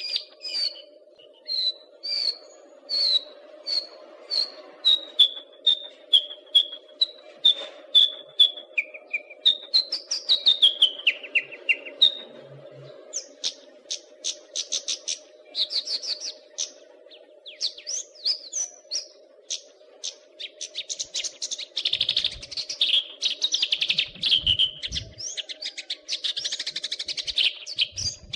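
Caged songbird singing: a run of clear, evenly spaced whistled notes that step slowly down in pitch, then a quick rising and falling whistle, then fast, dense chattering phrases through the second half. A steady low hum runs underneath.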